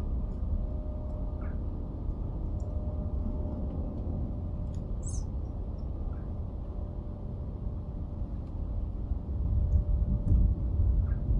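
Faint, brief chirps and calls of small garden birds, with a short high chirp about five seconds in. A steady low rumble underneath grows louder near the end.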